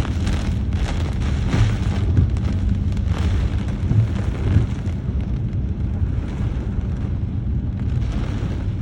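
Thunderstorm: strong wind buffeting the microphone, a heavy, continuous low rumble that surges in irregular gusts.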